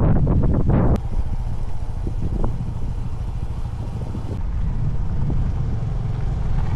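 Motorbike on the move: a low engine and road rumble with wind buffeting the microphone, gusty and louder for the first second, then a sudden change to a steadier, quieter rumble.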